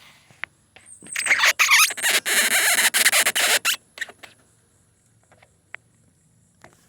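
Close handling noise on the microphone as the camera is set in place: about three seconds of rustling and scraping with a few short squeaks, then a few light ticks.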